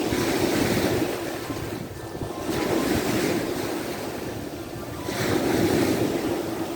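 Sea waves breaking on the shore, three surges in a row about two and a half seconds apart, each swelling and washing out.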